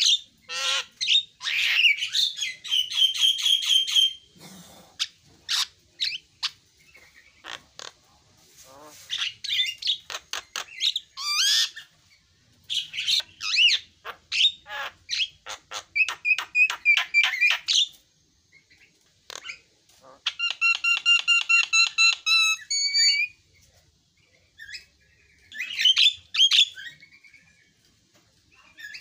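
Javan myna singing: phrases of harsh chattering and rapid repeated notes, with a fast run of repeated whistled notes about two-thirds of the way through, broken by short pauses.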